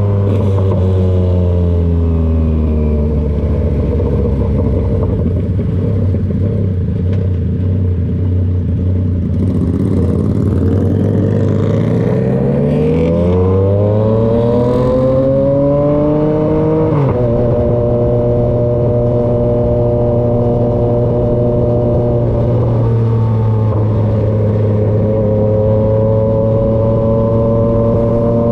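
Yamaha XSR900 inline-three with an SC-Project CRT exhaust. The engine note falls and holds low for a while, then revs climb steadily for several seconds under acceleration. The pitch drops suddenly at a gear change, and the engine then holds a steady note cruising.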